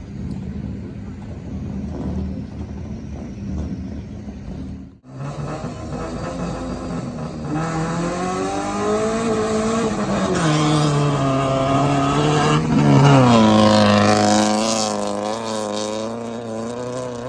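A rally car's engine accelerating hard. Its pitch climbs, falls back and climbs again as it shifts up through the gears. Before that there is a low rumble, which breaks off abruptly about five seconds in.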